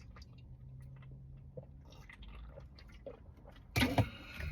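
Quiet chewing and wet mouth sounds of someone eating a sandwich, with small clicks over a faint steady low hum. A short louder noise comes near the end.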